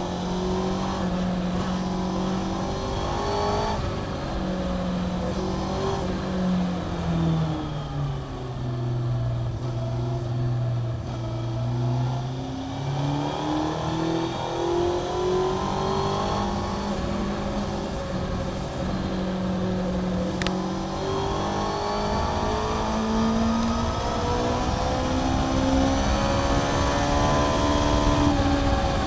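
Honda CBR600F (PC41) inline-four through a Mivv aftermarket exhaust, heard onboard at speed on track. The revs drop low for about four seconds midway, then climb for most of the rest in rising sweeps broken by sudden drops at each upshift. There is a single sharp click about twenty seconds in.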